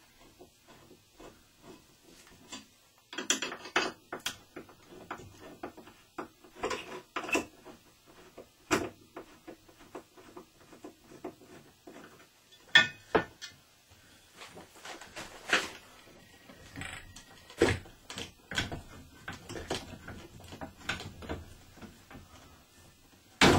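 Hand tools and metal pipe parts clicking, clinking and knocking at irregular intervals as an old shower valve is worked loose and taken apart, with a few louder knocks.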